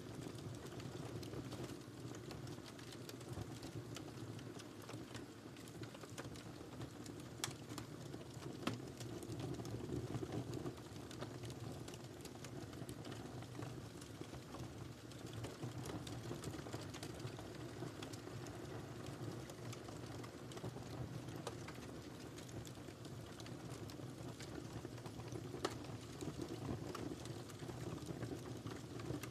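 Wood fire crackling in a fireplace: a steady low rumble and hiss with irregular small snaps and a few sharper pops.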